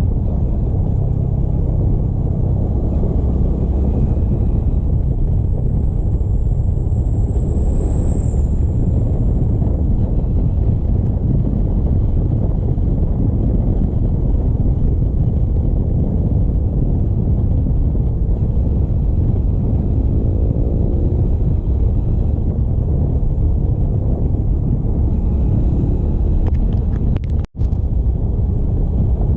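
Steady rumble of wind on the microphone and engine and road noise while riding a motorcycle. The sound cuts out for a split second near the end.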